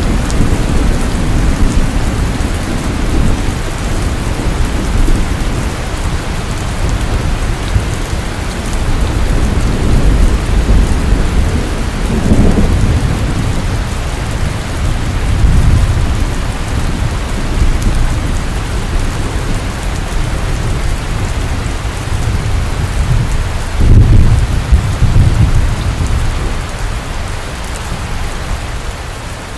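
Steady rain falling, with low rumbles of thunder swelling up a few times, the loudest about three-quarters of the way through.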